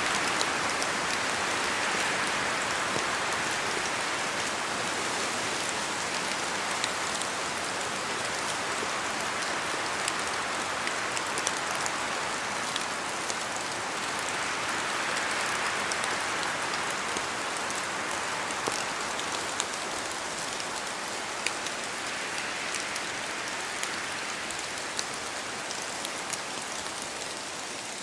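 Steady rain falling in a forest, a continuous hiss that slowly swells and eases as the wind moves through, with scattered sharp ticks of individual drops falling from the trees.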